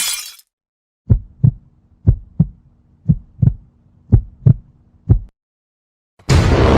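Heartbeat sound effect: low double thumps, lub-dub, about one beat a second, four pairs and then a single thump, over a faint hum. A short hiss ends it at the start, and a loud new sound cuts in near the end.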